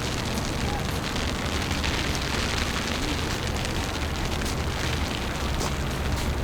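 Steady wind rumbling on the microphone in a snowstorm, with faint crackling ticks over a continuous noise.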